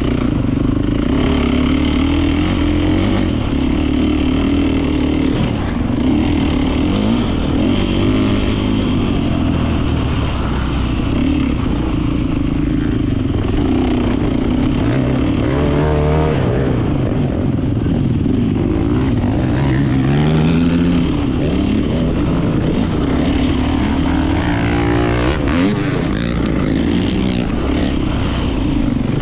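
Beta 450 RX motocross bike's four-stroke single-cylinder engine running hard on the track. The revs rise and fall continually through the gears, with sharp climbs in pitch around the middle and again near the end.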